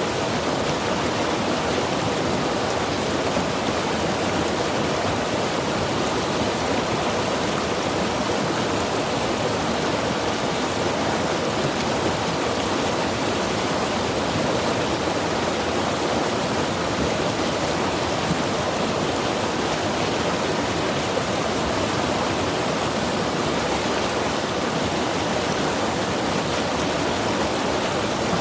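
Mountain river rushing steadily over rocks.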